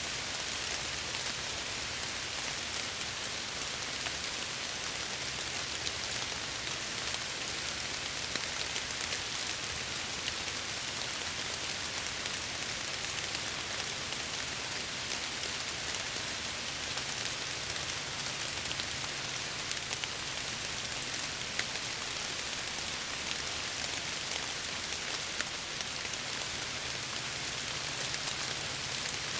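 Steady heavy rain falling and pattering against window glass, with scattered individual drop ticks over a low rumbling undertone.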